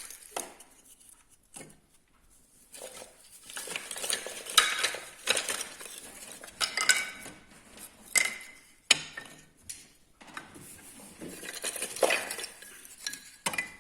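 Dry pine kindling sticks being stacked into a well-shaped crib in a small fireplace: irregular wooden knocks and clatters as the sticks are set down against one another and the fireplace, with short pauses between them.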